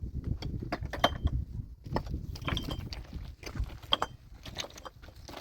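Irregular knocks and clinks of hard objects, a dense run of short clatters with a few brief metallic pings among them.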